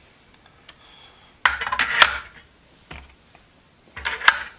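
Steel sockets clinking against each other and the metal box as they are set into place: a cluster of clinks about a second and a half in, a single tick, and another cluster near the end.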